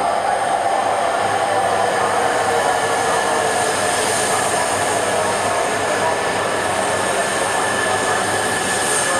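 Steady running noise of a train in motion: an even rushing hum with faint steady tones, unbroken throughout.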